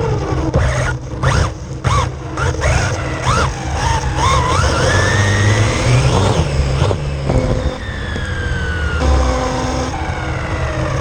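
Radio-controlled car's electric motor whining, first in short up-and-down blips of throttle, then in a long rising whine as it speeds up, which drops off about seven seconds in and falls away in pitch after that.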